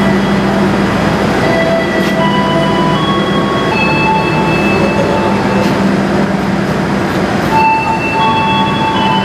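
Train noise at a station platform: a steady low hum and rumble, with short high squealing tones coming and going over it.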